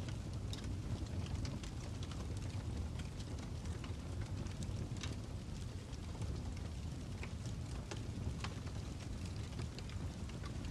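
Fire crackling: a steady low rush with irregular, scattered sharp pops and crackles.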